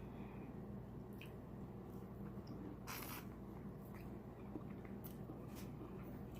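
Close-miked eating: soft chewing and wet mouth smacks with scattered small clicks, and one louder brief crackle about three seconds in, over a steady low hum.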